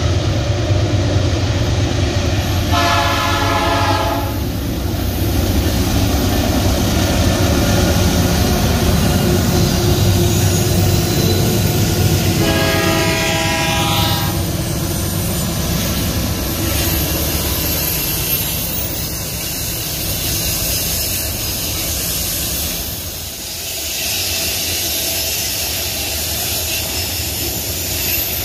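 Diesel freight locomotives running past as the train comes out of a tunnel, with two horn blasts about ten seconds apart, each lasting a second or so. The grain hopper wagons then roll past on the rails with a steady rumble.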